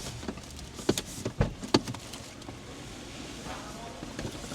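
A quick run of four or five sharp clicks and knocks inside a car about a second in, over a low steady hum.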